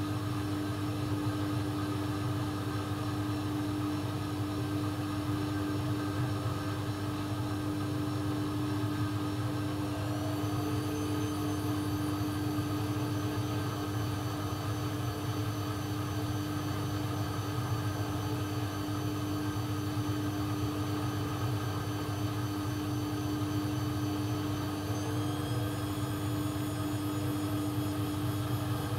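AEG Lavamat 1400 washing machine running with a steady motor hum and whine, its high whine rising a step in pitch about a third of the way in and again near the end, as the drum speeds up during a spin.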